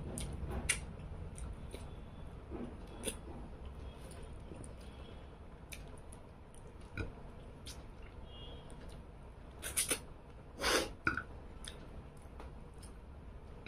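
A person eating rice and fish-head chochchori by hand: scattered short chewing and mouth sounds, with a few louder short noises about ten to eleven seconds in.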